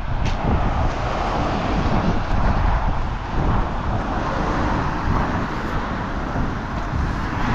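Strong gusty wind buffeting the microphone, a continuous rushing with irregular low rumbling flutter.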